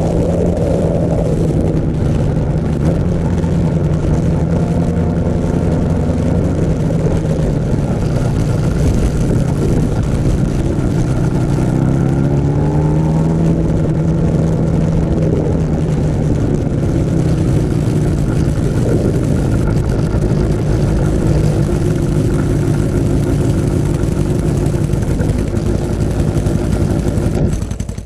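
Motorcycle engine running under way, a steady drone whose pitch rises about twelve seconds in as it accelerates, with wind and road noise.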